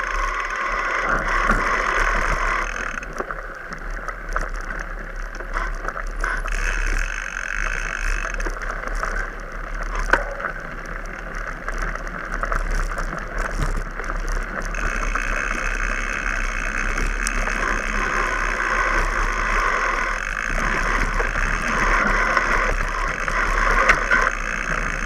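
Mountain bike being ridden over rough ground: steady rolling noise with the bike rattling and clicking throughout.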